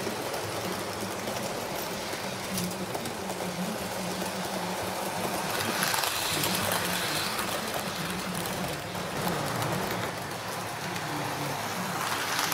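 A train running along its track, with steady wheel and motor noise.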